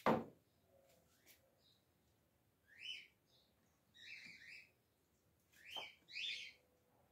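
A bird chirping: four short, sweeping chirps spread over the second half. A sharp knock at the very start is the loudest sound.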